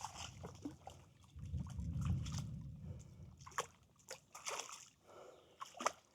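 Water sloshing and splashing from a hooked bass thrashing at the surface as it is played in. A low rumble comes about two seconds in, then several sharp splashes in the second half.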